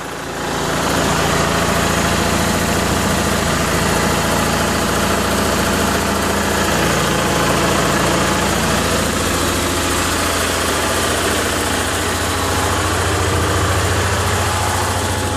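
Onan 6.5 kW gasoline generator running steadily, a loud, even engine drone heard up close.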